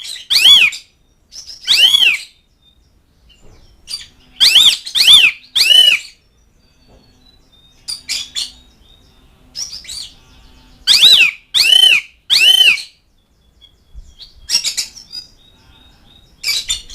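Asian pied starling calling: loud, clear notes about half a second long that rise and fall in pitch, several times in runs of three, with shorter, higher notes between them.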